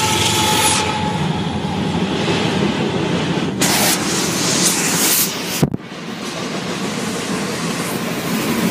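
Freight train rolling past close by: a steady rumble of railcar wheels on the track, with two short bursts of hiss about halfway through and a sudden break about two-thirds of the way in, after which the rolling noise carries on.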